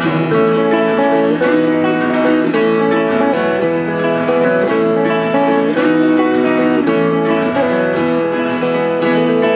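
Acoustic guitar instrumental break in a country-folk song: steady strummed chords with picked single notes moving over them.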